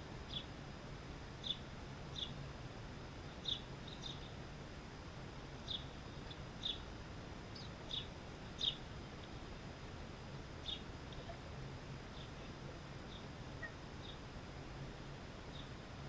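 Small birds chirping: short, high single chirps at irregular intervals, about one a second, thinning out after the first ten seconds. A steady low hum runs underneath.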